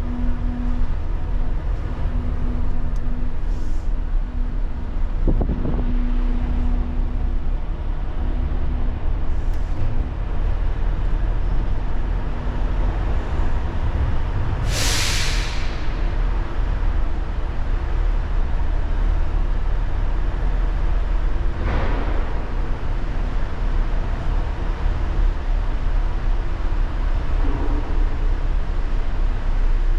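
Heavy truck engine running with a steady low rumble, with a sharp hiss of air-brake air released about halfway through and a fainter hiss some seconds later.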